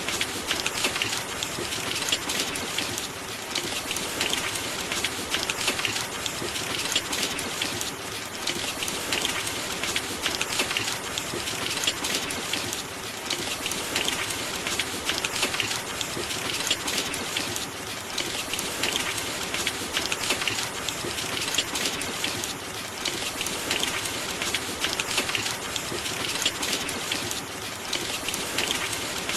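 Steady rain, a dense patter of drops hitting a surface with gentle swells in intensity.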